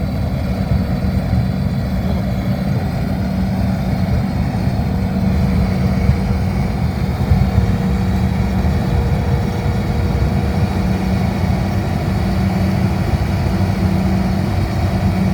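Combine harvester running steadily, its engine and reaping and threshing machinery giving a constant low hum.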